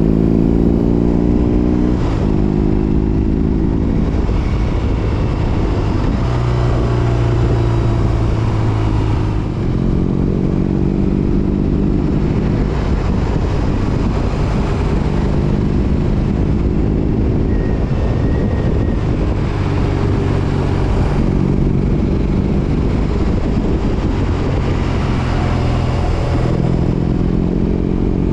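BMW R18 Roctane's 1802 cc boxer twin running through an aftermarket Freedom 4.5-inch exhaust while riding. The engine note climbs and drops back at gear shifts, about two, four and nine seconds in, then settles into steady cruising.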